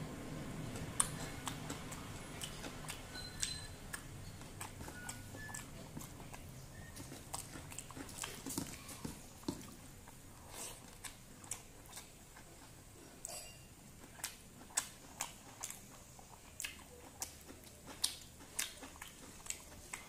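Close-miked chewing of hand-eaten rice with vegetable fry and raw salad: irregular wet mouth clicks and smacks, growing more frequent in the second half.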